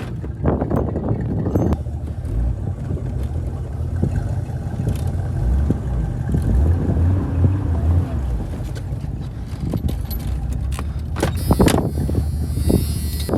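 A vehicle engine idling with a steady low rumble. A few sharp knocks sound just after the start and again about eleven to twelve seconds in.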